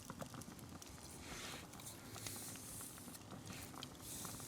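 Fireplace fire crackling softly with scattered small pops, along with a few brief soft rustles.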